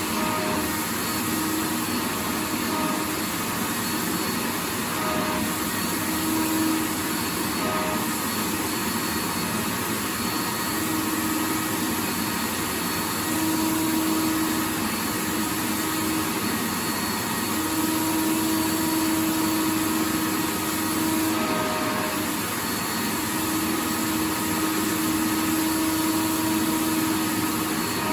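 Vacuum cleaner running continuously: a steady, dense rushing hiss with a motor hum whose tones swell and fade slightly.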